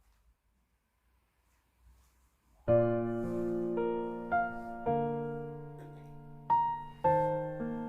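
Near silence, then background piano music begins about a third of the way in: slow struck chords and single notes, each left to ring and fade.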